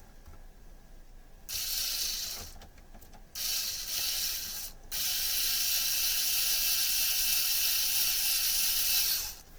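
A small electric motor and gears whirring in three runs: two short ones, then a longer steady run of about four seconds.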